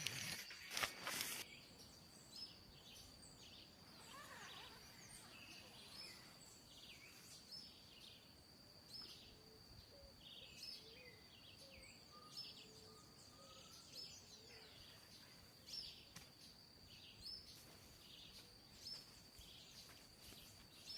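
Faint forest ambience: a steady high-pitched insect drone, with short chirps repeating about every second and a half and a few lower bird calls. A few clicks near the start.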